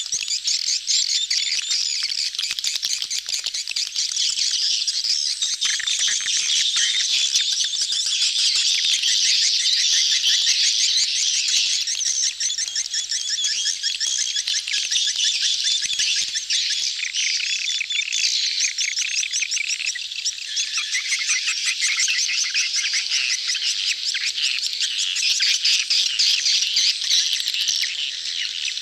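A crowded colony of swiftlets chattering: many birds giving rapid, high-pitched twittering and clicking calls all at once, without a break. It is the mating chatter of a breeding colony, the kind of recording played as a swiftlet lure call.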